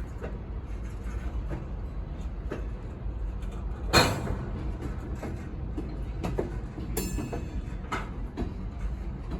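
BNSF freight train rolling past with a steady low rumble, broken by irregular sharp metallic clanks, the loudest about four seconds in and another about seven seconds in.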